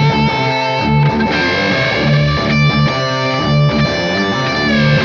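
Layered electric guitar parts played over a looper: a repeating low riff in drop D under sustained lead notes.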